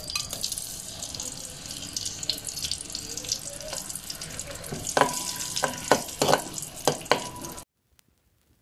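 Chopped ginger and garlic sizzling in hot oil in a metal wok, a steady hiss. A metal spatula scrapes and knocks against the wok several times about five to seven seconds in. The sound cuts off suddenly near the end.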